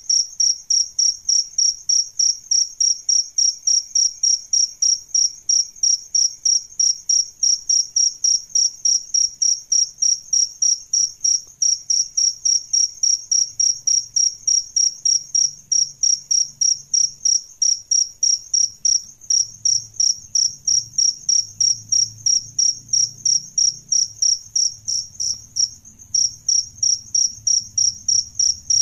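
Male cricket chirping in a steady, even rhythm of about three high-pitched chirps a second, with a brief pause near the end.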